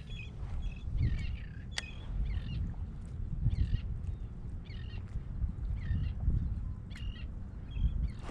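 A bird calling over and over, short harsh notes repeating roughly once a second, over a steady low rumble. A single sharp click sounds about two seconds in.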